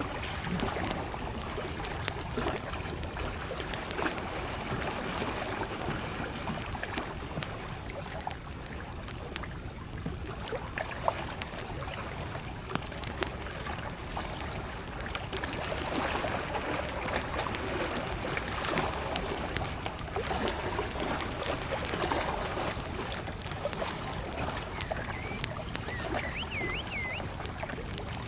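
Wood campfire crackling with frequent small pops, one sharper pop about eleven seconds in, over small lake waves lapping at the shore. A bird chirps a few times near the end.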